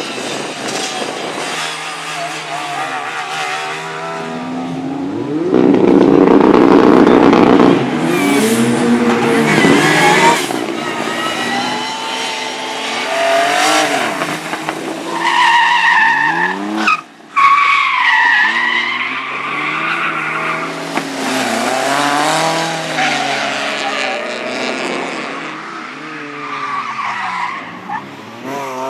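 Rally car engines revving hard, their pitch climbing and dropping again and again through gear changes and lifts of the throttle, loudest for a couple of seconds about six seconds in. The sound cuts out abruptly for a moment about halfway through, then the revving resumes.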